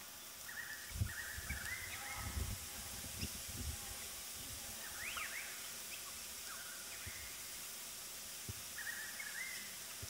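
Short, faint bird chirps and warbling phrases, several times, over a steady hiss, with a few low thumps in the first few seconds.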